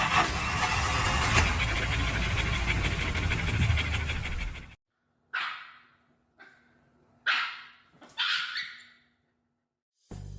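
A loud, even rush of noise for the first half, then a dog barking four times, about a second apart, each bark with a short fading tail.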